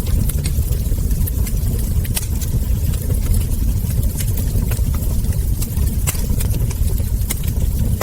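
Wood fire crackling: frequent sharp pops and snaps of burning logs and embers over a steady low rumble.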